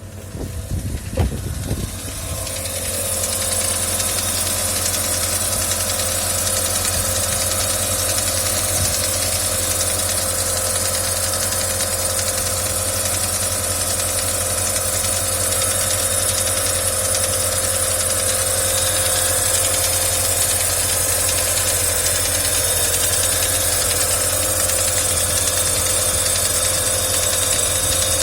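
Car engine starting with a few uneven knocks and catches in the first couple of seconds, then running steadily at idle. The owner reports that a knock has come back in this engine.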